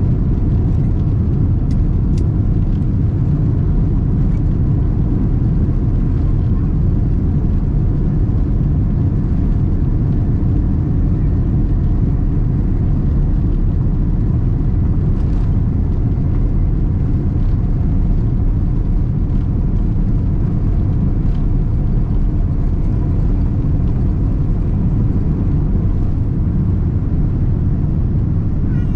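Boeing 787-10 Dreamliner at takeoff heard inside the passenger cabin: a loud, steady deep rumble of the engines at takeoff power and rushing air, with a few faint steady tones over it.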